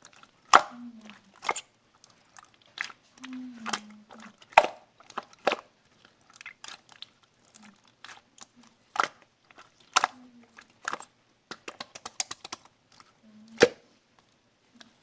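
Pink slime being pressed and squeezed by hand, giving off irregular sharp popping clicks as trapped air pockets burst, with a quick flurry of clicks near the end.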